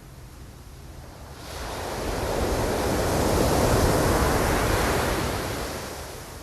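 Ocean surf: a wave rushes in, swelling from about a second and a half in, peaking midway and fading away near the end, over a steady low rumble.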